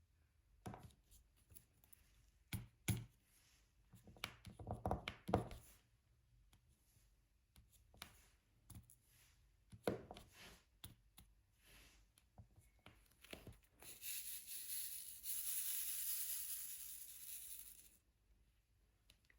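Diamond painting: a scattered run of small taps and clicks as a drill pen picks up resin drills and presses them onto the adhesive canvas. Near the end comes a steady papery rustle lasting about four seconds.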